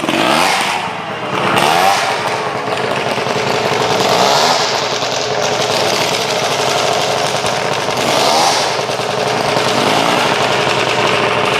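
Motorcycle engines running loudly and revved several times, each rev a quick rise and fall in pitch.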